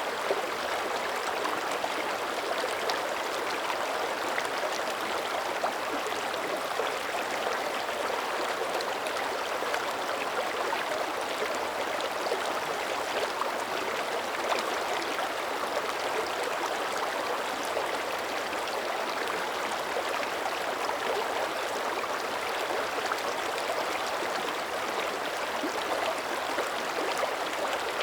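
Mountain creek running: a continuous, even rush of flowing water that holds steady throughout.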